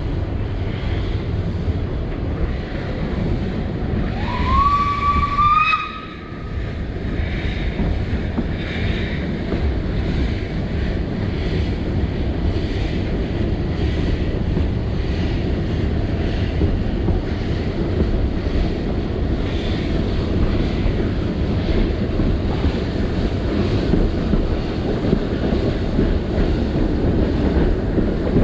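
A steam locomotive's whistle sounds once about four seconds in, rising in pitch and then held for about a second and a half. Under it runs the steady rumble of a moving narrow-gauge steam train.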